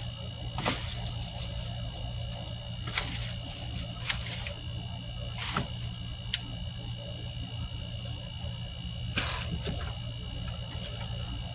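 About six brief rustling, crackling handling noises, spread unevenly over the stretch, against a steady low hum and a faint high steady tone.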